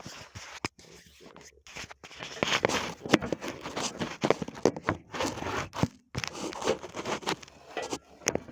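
Irregular scuffing and rustling with scattered short knocks, the sound of someone moving about and handling things close to the microphone.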